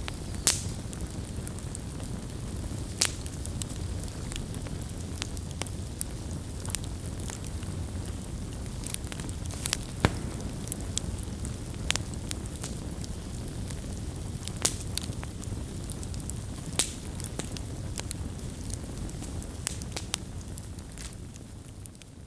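Wood bonfire crackling and popping over the low, steady rumble of the flames, with sharp snaps every second or so and a few louder pops. The sound fades out near the end.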